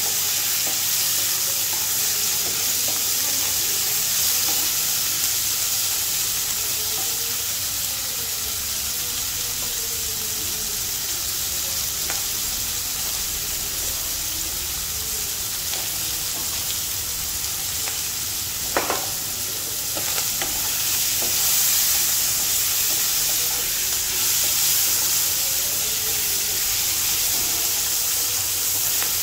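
Chopped onion, capsicum and tomato sizzling in hot oil in a wok while a wooden spatula stirs and scrapes them around the pan. One sharp knock about two-thirds of the way through.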